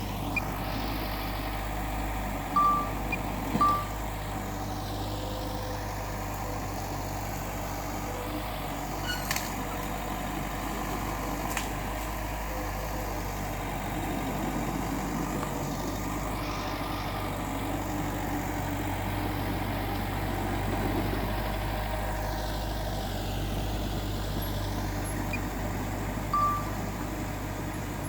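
Heavy earthmoving machinery's diesel engine running steadily. Three short high beeps sound over it, two close together a few seconds in and one near the end.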